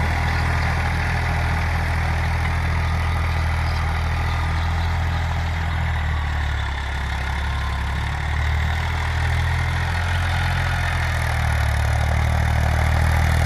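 Tractor diesel engine running steadily at a constant speed, with a slight dip in level about seven seconds in.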